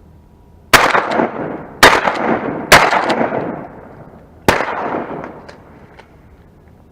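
Shotgun blasts from a duck hunt: four loud shots, three in quick succession and a fourth almost two seconds later, each echoing away over about a second.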